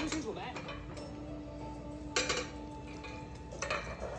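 Dishes and cutlery clinking a few times, with soft held music tones underneath.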